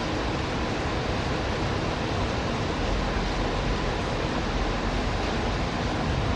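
Steady hiss of falling rain, with a low rumble that grows stronger about halfway through.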